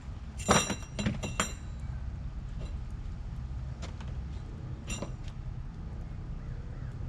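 Metal clinking: three quick ringing clinks in the first second and a half, then two more about four and five seconds in, over a steady low rumble.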